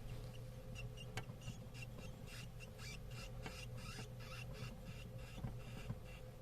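Djungarian hamster pups, four to five days old, squeaking: a rapid series of faint, high-pitched squeaks at about four a second, strongest in the middle and fading near the end, over a steady low hum.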